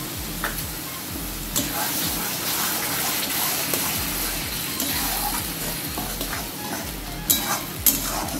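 Fried masala paste with freshly added yogurt sizzling in a metal kadai while a metal spatula stirs and scrapes it. The sizzle thickens a second or two in as the stirring starts, with sharp clinks of the spatula against the pan, the loudest two near the end.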